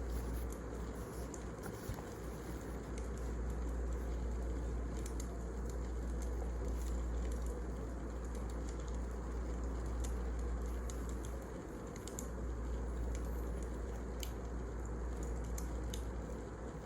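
Wood fire burning: a steady low rumble and hiss with scattered sharp crackles and pops of the burning logs.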